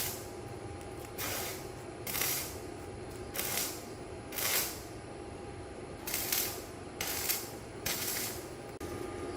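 Short hissing sprays, about eight in a row at roughly one a second, each lasting about half a second.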